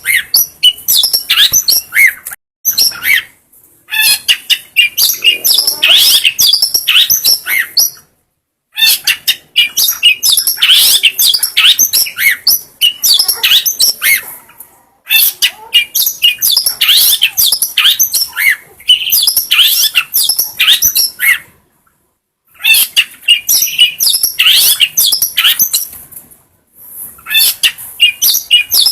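Long-tailed shrike (cendet) singing a fast, varied chattering song of high chirps and squeaky whistled notes, delivered in bouts broken by several brief pauses.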